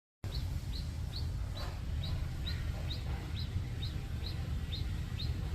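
A bird chirping the same short, high note over and over, about two to three times a second, over a steady low rumble.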